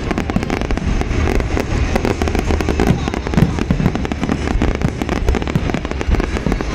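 Fireworks display at its height: a dense, unbroken barrage of shell bursts and crackle, many bangs overlapping with a deep rumble underneath.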